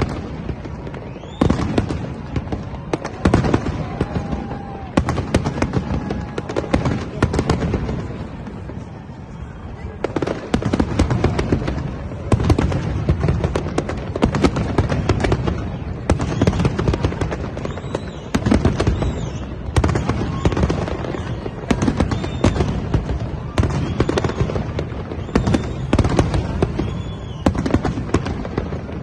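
A New Year fireworks display: a dense, continuous barrage of bangs and crackling bursts, easing briefly about eight seconds in before building again.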